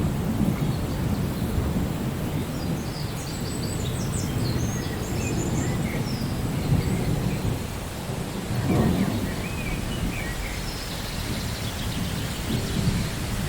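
Thunderstorm: low rolling thunder rumbling under steady rain, with a swell of thunder about nine seconds in. A few faint high chirps come through in the first half and near the end.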